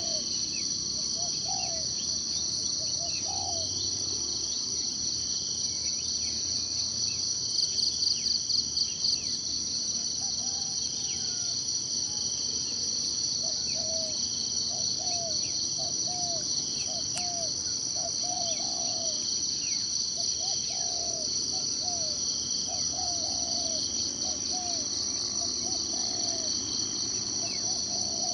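Forest insect chorus: a steady high trill that swells briefly about eight seconds in, with runs of short, low repeated calls and scattered thin bird chirps over it.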